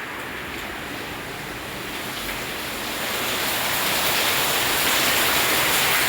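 Heavy rain pouring down: a steady hiss that grows louder about halfway through.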